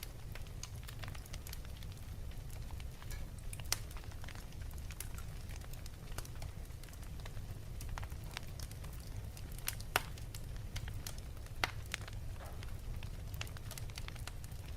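Wood fire in a fireplace crackling steadily, with irregular sharp pops over a low rumble; the loudest pops come near 4, 10 and 12 seconds in.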